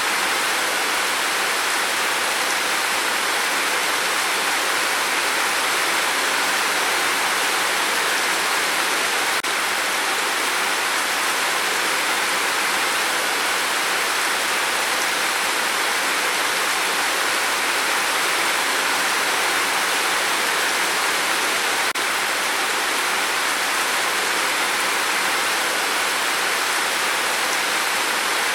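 Steady rain on a tin roof: an even, unbroken wash of noise with no single drops standing out.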